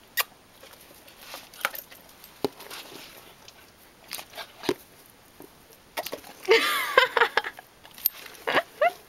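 Puppies chewing and gulping turkey skin: scattered wet smacks and crunching clicks. About six seconds in comes a louder stretch of short gliding squeals, and a few more near the end.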